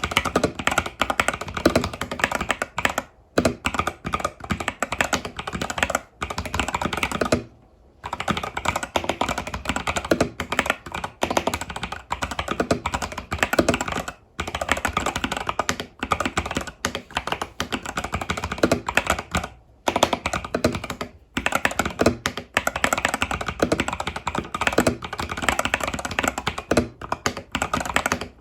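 Fast, continuous typing on an Epomaker TH80 Pro mechanical keyboard fitted with Epomaker Budgerigar tactile switches and stock keycaps, with brief pauses every few seconds.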